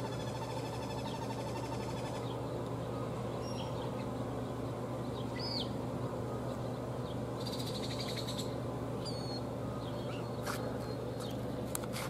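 Scattered short bird chirps and whistles, with a brief fast rattling chatter about eight seconds in, over a steady low hum.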